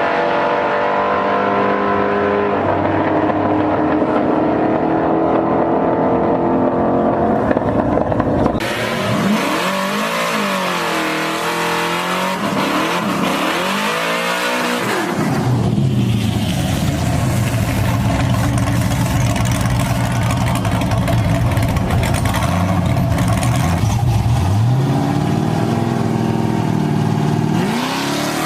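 Truck engines running loud and revving, the pitch rising and falling. The sound changes abruptly about eight and fifteen seconds in, ending as a deep, steady engine rumble that revs up again near the end.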